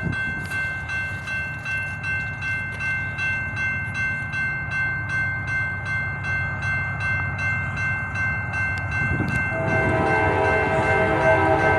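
Railroad crossing signal bell ringing steadily over the low rumble of an approaching freight train. About nine and a half seconds in, the locomotive's horn starts sounding and holds to the end.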